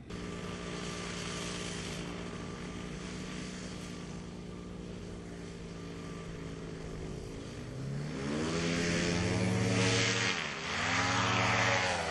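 Paramotor engine and propeller running steadily, then throttled up about eight seconds in, with the pitch rising and the sound growing louder. The pitch dips briefly and rises again near the end.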